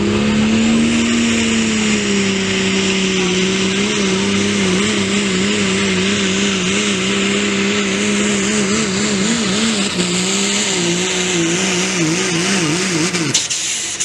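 Turbocharged diesel pickup truck running at full throttle under load while pulling the sled, its engine holding a steady high pitch over a loud hiss. Near the end the pitch wavers up and down rapidly, then the engine drops off abruptly as the throttle is released.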